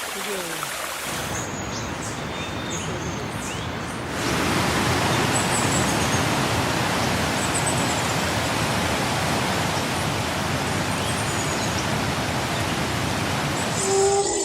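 Steady rushing water noise, growing louder about four seconds in.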